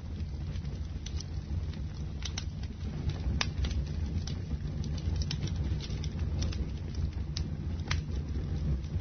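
A bonfire of burning wood, with irregular sharp crackles and pops over a steady low rumble of the flames.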